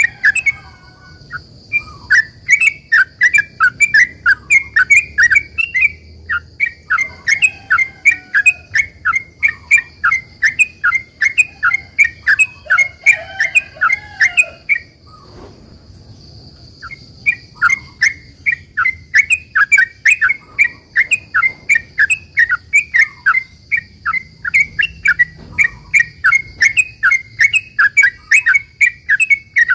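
Yellow-vented bulbul (trucukan) singing in a long, rapid run of short chattering notes, about four to five a second, breaking off for about two seconds midway before starting again. A faint steady high whine runs underneath.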